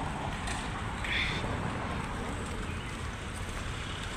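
Steady outdoor background noise with a low rumble and a brief higher sound about a second in.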